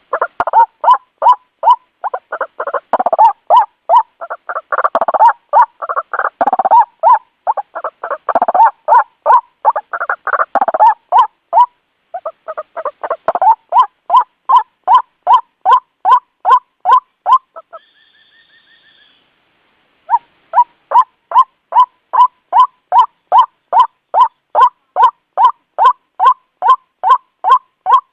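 White-breasted waterhen calling its harsh repeated 'kwak' note, about two and a half calls a second. In the first half the calls overlap into a louder, rougher chorus. Past the middle they stop for about two seconds, then resume as a steady series.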